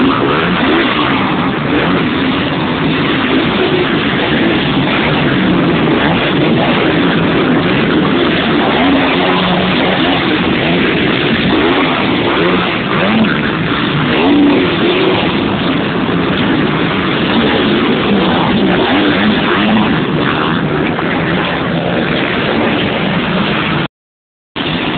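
A field of 125 cc two-stroke motocross bikes racing, their engines revving and blending into a dense, loud drone. The sound cuts out abruptly for a split second near the end.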